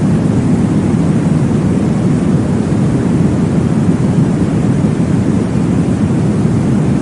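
Steady, deep whooshing noise from a baby sleep-aid white-noise track, heavy in the low end like a rumble, with no distinct beat.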